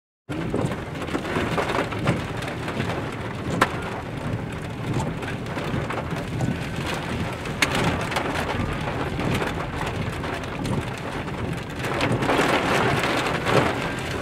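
Rain falling on a car in a severe thunderstorm: a steady hiss with a few sharp taps about four and eight seconds in, swelling a little near the end.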